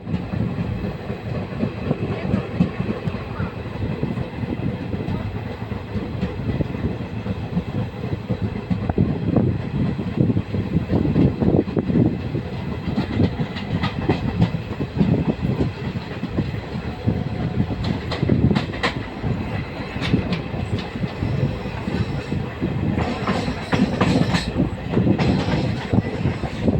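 Wheels of an LHB passenger coach running on the track: a continuous rumble with clickety-clack from the rail joints. Sharper clicks and rattles come in more often in the second half.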